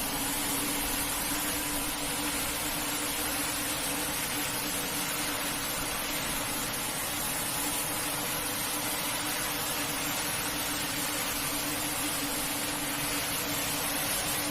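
A carpet-cleaning machine running steadily: a constant motor hum under a strong, even hiss that does not change.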